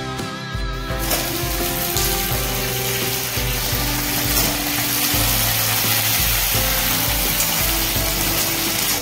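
Potato chunks sizzling steadily as they fry in hot oil in a kadai, starting about a second in, with background music playing throughout.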